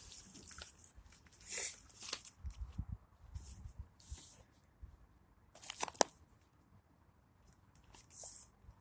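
Scattered short rustles and crunches, with a sharp click about six seconds in.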